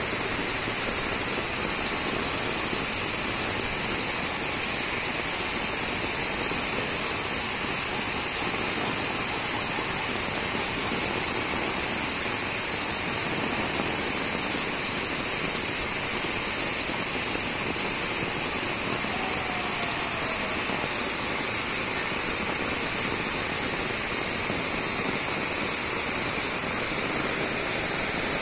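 Torrential rain falling steadily on a flat concrete rooftop, an even, unbroken hiss of rain.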